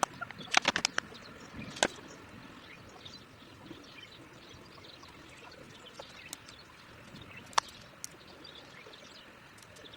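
Short sharp clicks and knocks of small objects being handled while tea is prepared: a quick cluster in the first second, a louder click near 2 s, then a few scattered single clicks over faint steady outdoor background noise.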